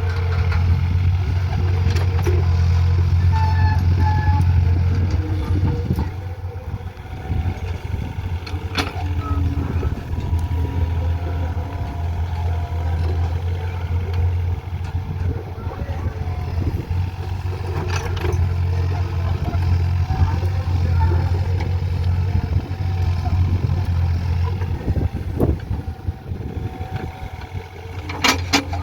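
Diesel engine of a JCB digging machine running steadily, a deep drone, with a few sharp metal knocks from the working machine now and then.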